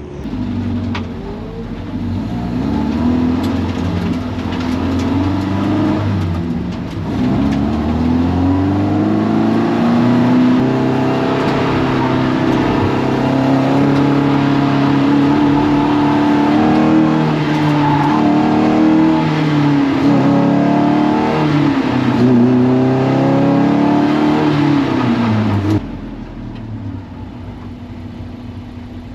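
Toyota MR2 race car engine pulling away and accelerating, its revs rising and falling as it changes through the gears. About 26 seconds in, the loud engine sound cuts off sharply, leaving a quieter steady engine hum.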